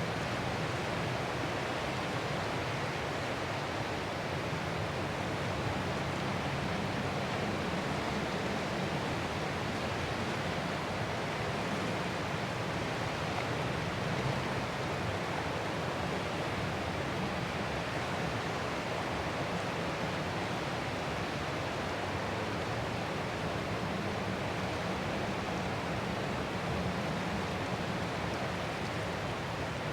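Ocean surf as a steady, even rushing noise, with no separate wave crashes standing out.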